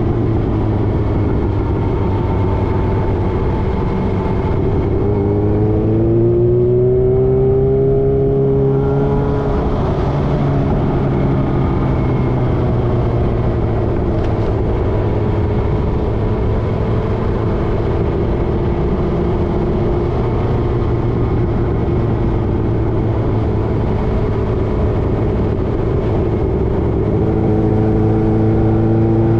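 Motorcycle engine running under way. The pitch drops at the start, climbs between about five and eight seconds in, holds steady, then rises again near the end.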